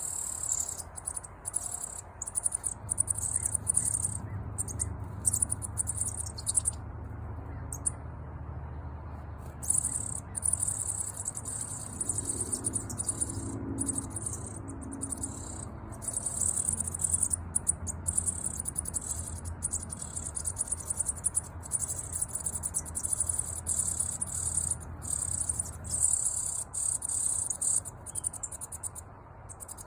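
Newly hatched nestlings begging with high, thin chirring calls in stretches that start and stop every few seconds, over a low rumble.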